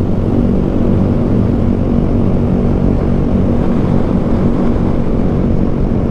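Honda Grom's single-cylinder engine running steadily at road speed, with a dense low rumble of wind and road noise.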